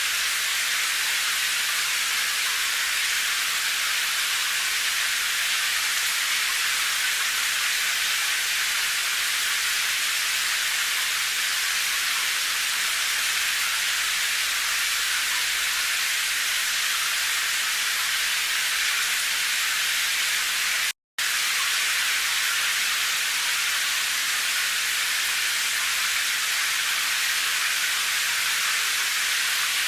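Steady rain hiss, an even high-pitched wash with little low rumble and no separate drops standing out. It cuts out completely for a split second about two-thirds of the way through, then carries on unchanged.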